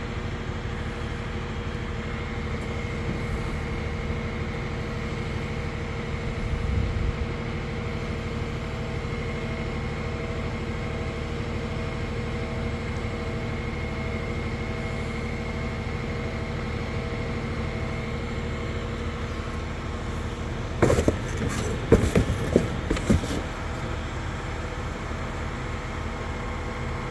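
Crane truck's engine running steadily, with a constant whine over the drone. A cluster of loud knocks and clanks comes about three quarters of the way through.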